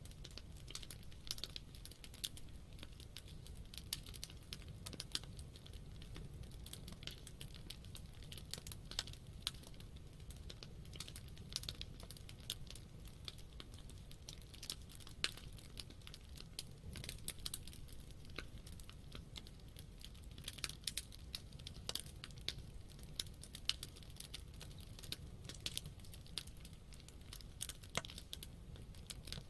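Wood campfire burning, crackling with dense, irregular snaps and pops over a low steady rumble.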